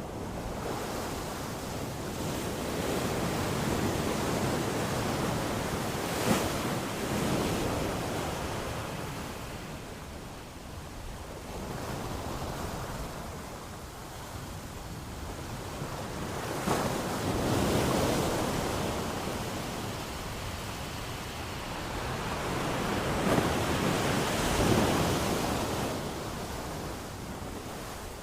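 Ocean waves breaking and washing up a beach, a steady surf that swells and ebbs as each wave comes in, with a few sharper crashes.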